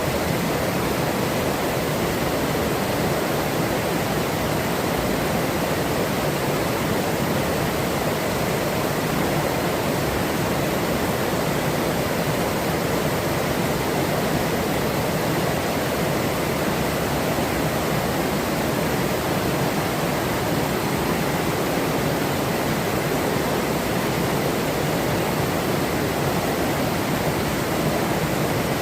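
Forest river running steadily: water rushing over rocks as a continuous, even roar without breaks.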